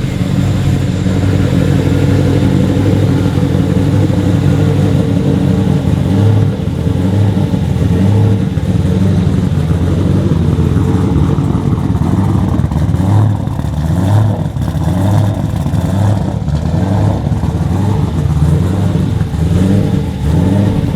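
Turbocharged LS V8 in a Nissan 300ZX (Z31) idling while it warms up after a cold start. The idle is loud and steady, with a regular uneven pulse in the low end.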